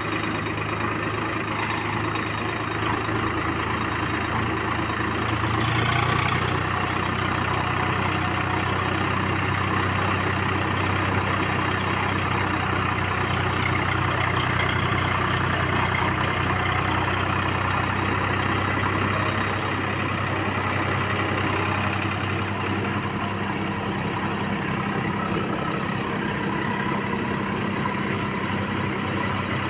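Tractor engine running steadily, its note rising slightly about six seconds in and changing again around twenty seconds in.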